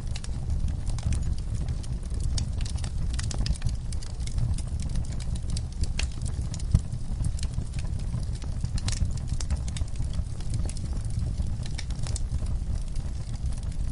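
Campfire burning with a low steady rumble and irregular sharp crackles and pops of burning wood, one louder pop a little before the middle.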